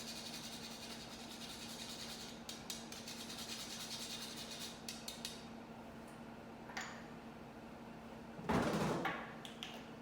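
Whole nutmeg being grated: a fast run of fine, rasping strokes for the first five seconds or so. Then a short click, and a heavier knock about eight and a half seconds in as something is set down on the counter. A steady low hum runs underneath.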